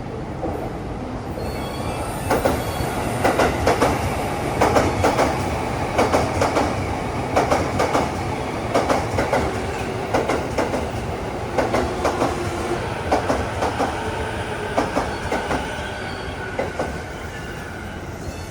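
Electric commuter train pulling into a station platform, its wheels clacking over the rail joints in quick clusters that space out as it slows, with a faint brake squeal in the last few seconds.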